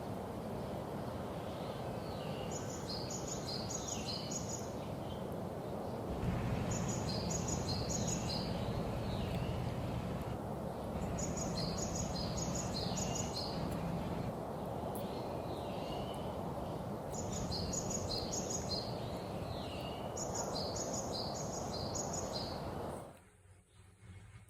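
A bird repeating a short, high chirping phrase every few seconds over a steady background hiss. Everything drops away sharply near the end.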